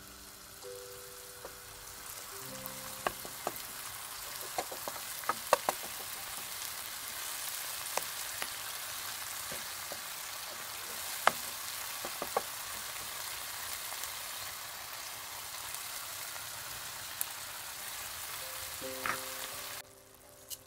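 Chopped tomatoes and onions sizzling in a nonstick frying pan, a steady hiss that cuts off sharply near the end. A wooden spoon knocks and clicks against the pan as they are stirred, mostly in the first half. Soft background music notes sound near the start and again near the end.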